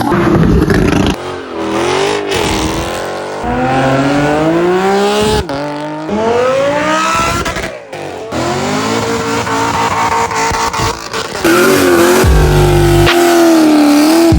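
Several high-performance car engines in quick succession, each rising in pitch as it revs and accelerates hard, the sound changing abruptly a few times. A steady, loud engine note holds through the last few seconds.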